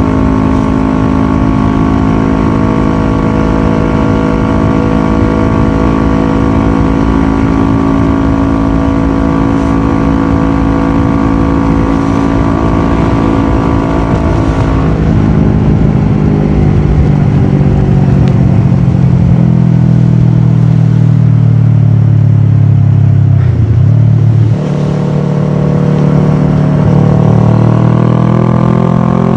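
Kawasaki ER-6f parallel-twin engine with a full Akrapovic exhaust, heard from the moving bike. The engine note holds steady for about fifteen seconds, then falls as the bike slows, changes abruptly about twenty-four seconds in, and rises again under acceleration.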